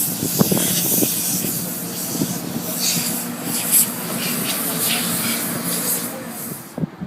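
Pressure-washer spray hissing against a car in repeated bursts, over a steady machine hum. The spray cuts off near the end.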